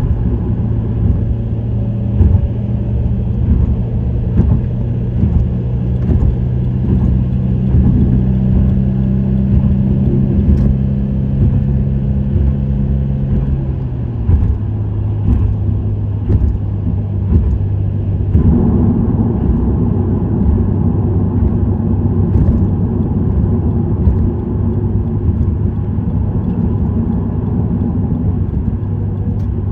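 Subaru WRX STI (VAB) 2.0-litre turbocharged flat-four with an STI Performance muffler, running at a steady cruise with a constant exhaust drone over road noise. About fourteen seconds in the drone drops slightly in pitch, and about four seconds later it grows fuller and louder.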